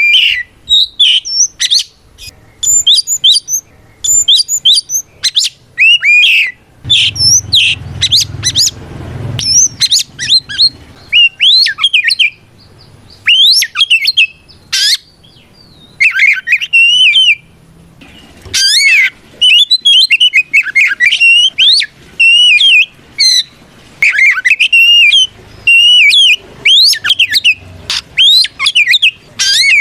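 Oriental magpie-robin (kacer) singing loudly, a rapid run of varied whistled phrases with quick rising and falling notes, broken by short pauses. It is the bird's full challenge song, the call to a rival.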